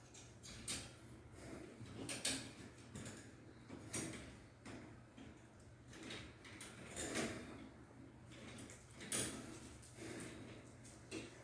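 Scattered light clicks and rustles at irregular intervals, about one every second or two, from hands working the ceiling fan's wiring and hardware.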